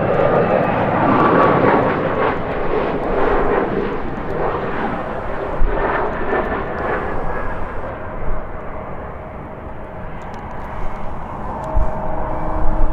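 Jet airliner passing, its engine roar loudest in the first couple of seconds with a faint whine over it, then fading away over about ten seconds. Gusts of wind buffet the microphone near the end.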